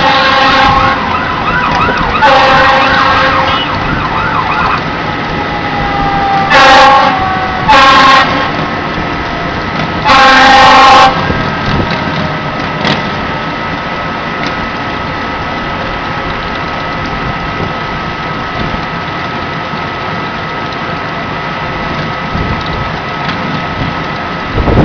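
Fire engine arriving with its siren: a fast wavering wail over the first few seconds, then a slowly falling siren tone. Three loud horn blasts come about a third of the way in, the last one the longest. After that a steady high tone runs on over continuous engine noise.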